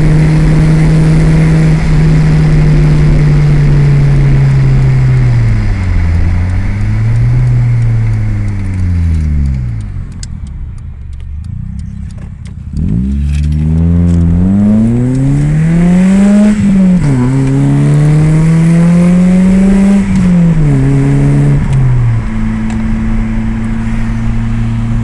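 BMW E30 318is four-cylinder engine through a Scorpion motorcycle exhaust, driven hard: the revs hold high, fall away to a quieter low hum for a couple of seconds, then climb again through the gears, the pitch rising and dropping sharply at each shift. Wind noise from the open windows runs underneath.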